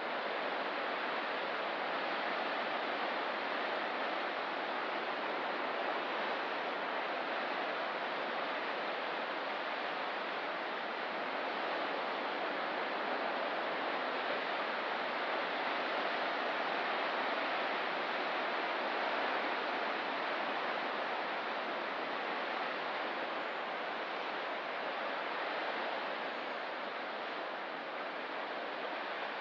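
Ocean surf washing on a rocky coast in an even, unbroken hiss, with no single wave standing out.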